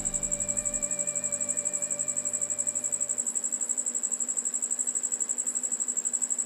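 Steady high-pitched chirping in a rapid even pulse, about eight a second, typical of a cricket. Held background music notes die away in the first three seconds.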